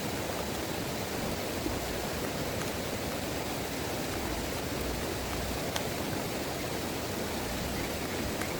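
Heavy rain pouring steadily as an even hiss, with a couple of sharper ticks.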